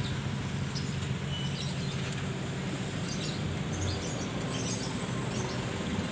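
Birds chirping over a steady low rumble. A thin, high-pitched whine comes in about four and a half seconds in and makes it louder.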